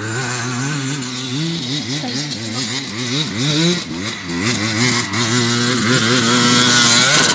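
Motocross dirt bike engine revving, its pitch rising and falling again and again as the throttle is worked, loudest near the end.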